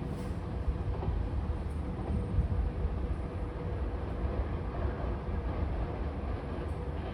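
Nishitetsu 3000 series electric commuter train running on the rails as it pulls out of the station: a steady low rumble with a faint constant tone above it.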